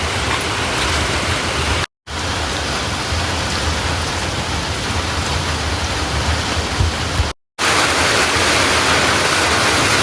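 Heavy rain pouring steadily. The sound cuts out briefly about two seconds in and again after about seven seconds, each time coming back with a slightly different character.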